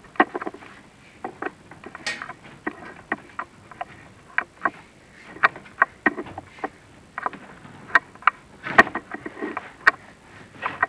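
Irregular sharp clicks and knocks, roughly two a second, with a louder knock about nine seconds in, from the chimney inspection camera and its rods or cable being worked and knocking in the flue.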